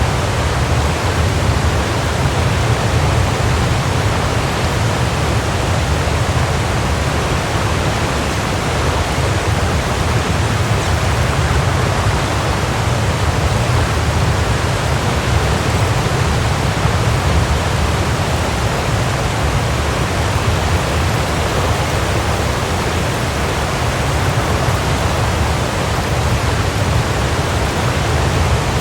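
Waterfall: a steady, even rush of falling water, with a deep low rumble under the splashing hiss.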